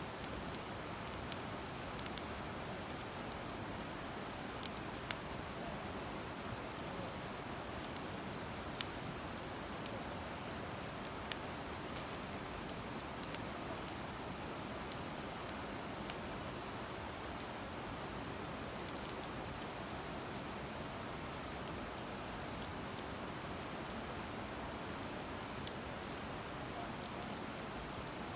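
Wood fire burning in a Uniflame fire stand, crackling with scattered sharp pops over a steady hiss.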